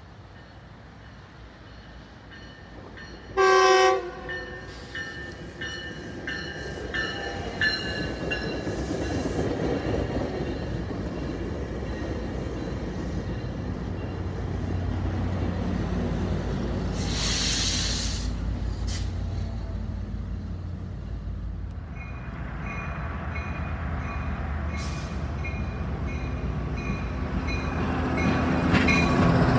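Tri-Rail diesel commuter train arriving: one short, loud horn blast about three and a half seconds in, then the locomotive and coaches rumbling past as the train slows. There is a brief sharp hiss of air about halfway through, and a regular high ringing in the last third.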